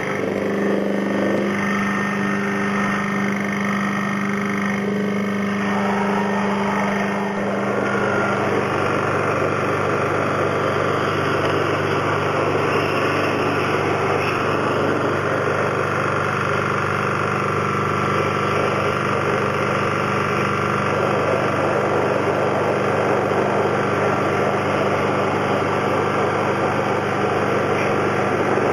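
An electric motor runs steadily with a constant hum that drops slightly in pitch about eight seconds in.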